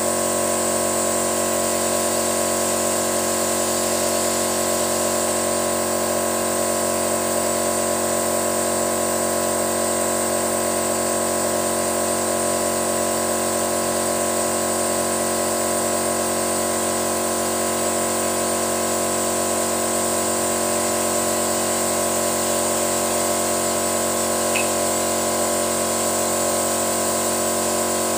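A machine running steadily at one constant speed, a continuous hum made of many fixed tones with no change in pitch, heard during an engine carbon-cleaning job.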